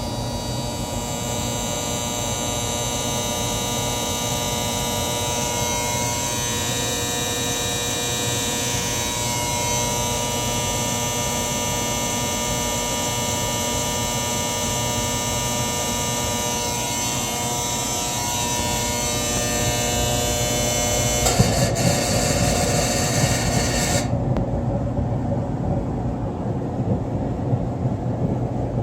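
Maytag Centennial MGDC400VW0 gas dryer making a loud, steady screeching, humming buzz, like an end-of-cycle buzzer but not one. New solenoids have not cured it, and the owner suspects the gas valve assembly. About 24 seconds in, the high part of the buzz cuts off suddenly, leaving a lower running sound.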